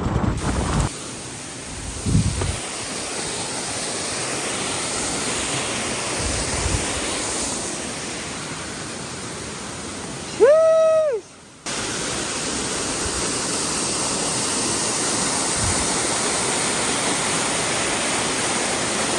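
Steady rushing water of a waterfall. About ten seconds in, a loud, brief pitched tone rises, holds and falls away, followed by a moment of quiet before the water sound resumes.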